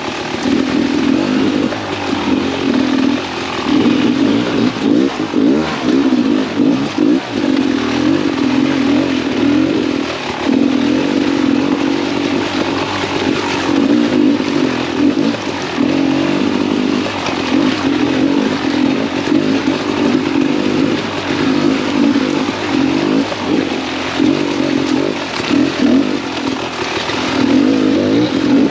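2017 Beta 300RR's single-cylinder two-stroke engine revving up and down without a break as the dirt bike is ridden hard over slick trail, with a steady noisy hiss over it.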